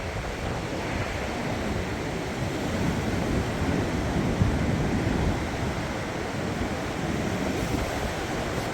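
Strong storm wind blowing steadily, with wind buffeting the microphone.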